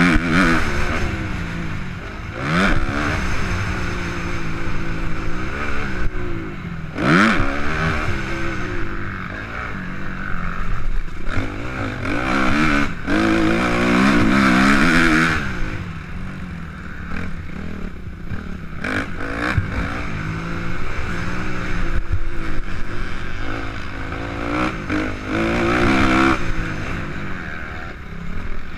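Suzuki RM-Z250 four-stroke single-cylinder motocross engine revving hard and dropping back again and again, its pitch rising and falling as the bike accelerates and shifts. Occasional knocks from the bike come through as it rides over the rough track.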